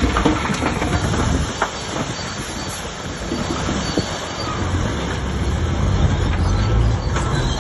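Shantui DH17C3 crawler bulldozer working: its diesel engine rumbling under load and swelling twice, with the metallic clatter and squeal of its steel tracks.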